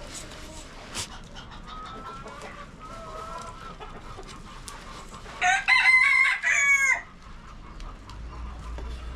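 Rooster crowing once, loud, about halfway through, with chickens clucking quietly before it.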